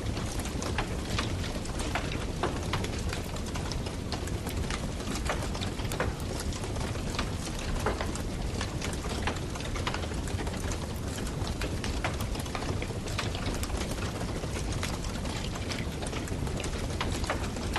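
Campfire burning: wood crackling with frequent irregular sharp pops over a steady low rush.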